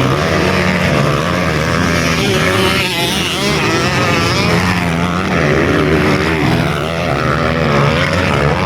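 Trail motorcycle engines running and revving, with pitches that rise and fall and overlap.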